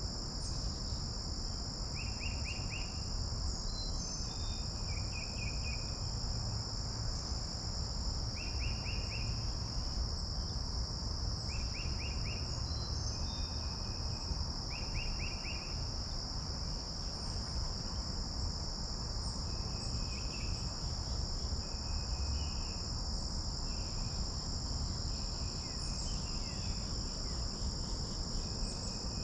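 Steady, unbroken high-pitched drone of insects singing. Over it, a bird repeats a short phrase of quick notes every few seconds. There is a low rumble underneath.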